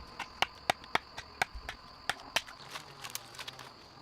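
A steady high insect drone with a run of sharp, irregular clicks and snaps over it, three or four a second.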